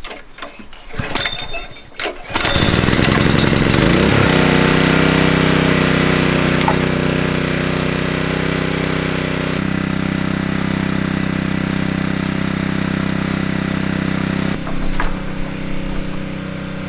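A few clicks and knocks, then a small engine starts about two seconds in, rises in pitch for a second or two and runs steadily, changing note twice and easing off near the end.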